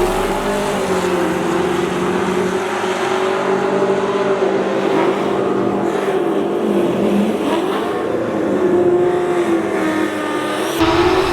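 Race truck engine held at high revs, its pitch wavering and dipping twice around the middle of the run.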